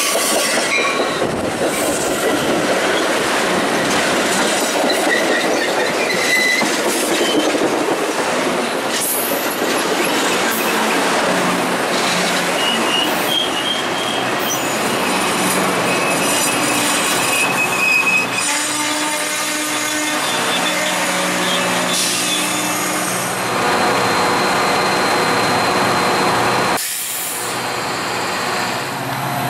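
Metra bilevel push-pull commuter train rolling slowly past, steel wheels squealing on the rails at times, mostly in the first half, over the steady rumble of the cars. Near the end the diesel locomotive pushing at the rear comes by, and its engine hum grows.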